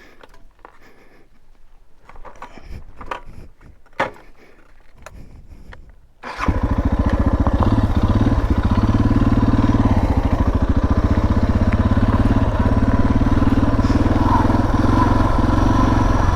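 A few faint clicks and handling sounds, then about six seconds in the Suzuki DR650's single-cylinder four-stroke engine starts and runs steadily.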